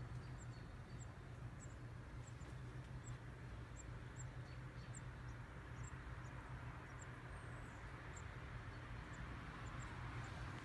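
Wrens at a nest box giving short, very high, faint chirps, repeating irregularly about every half second over a steady low rumble.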